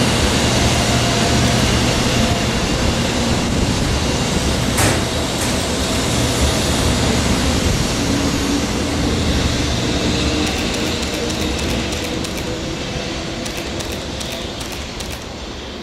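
A Shinkansen 0 series train running out of the station after departing, its wheels and traction motors making a steady noise that slowly fades as it draws away. There is a sharp click about five seconds in and a scatter of light clicks near the end.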